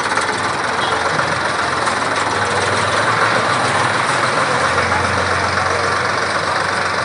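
Tractor engines running steadily, a dense continuous engine noise with a low hum underneath.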